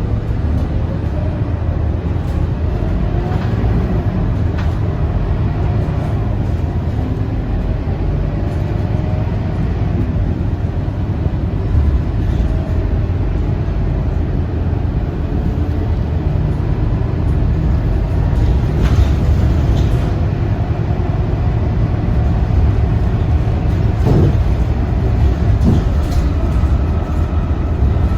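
Scania K230UB city bus under way, its engine and drivetrain rumbling steadily with a whine that rises in pitch a few times in the first ten seconds as it pulls away. A few sharp knocks or rattles come near the end.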